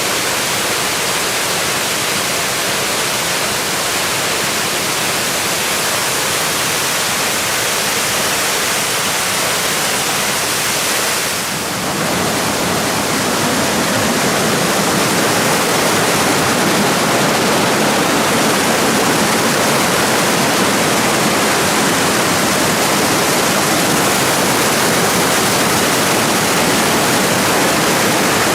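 Steady rush of falling water from a waterfall on a mountain stream. It dips briefly about eleven seconds in, then comes back a little louder.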